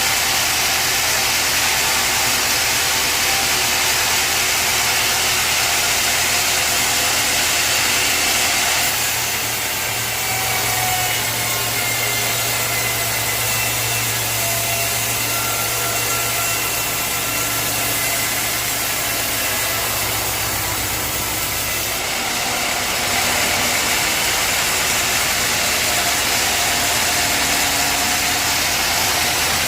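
Sawmill machinery running steadily with an engine-like drone. Its tone shifts from about nine seconds in, with a stronger low hum, and shifts back about twenty-two seconds in.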